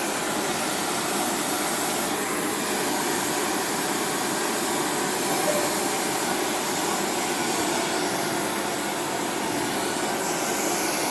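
Steady, loud rushing noise of a running machine, unbroken and even throughout.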